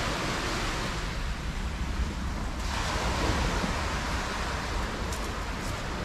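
Mediterranean sea waves washing onto the shore, with a fresh surge of hiss from a breaking wave about two and a half seconds in, over a steady low rumble.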